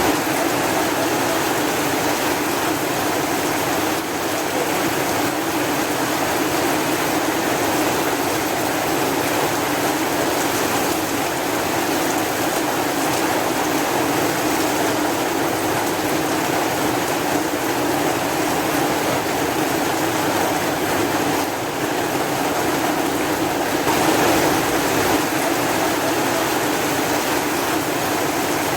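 Steady rain falling: an even, unbroken hiss of water with no distinct drops or thunder.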